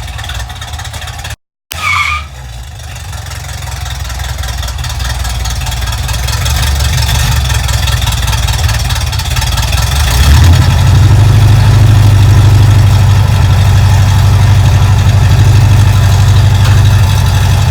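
Chevrolet 350 small-block V8 in a 1968 El Camino running under way, growing steadily louder over the first ten seconds and then holding a loud, steady drone with road and wind noise. A brief high squeal comes about two seconds in, just after a short dropout.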